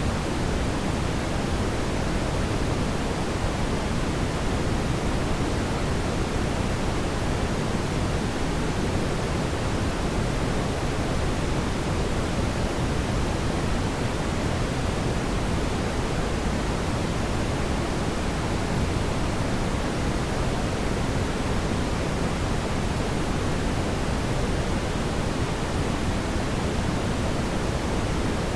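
Fire in a fireplace giving a steady, even rushing sound, heaviest in the low end, with no distinct crackles or pops.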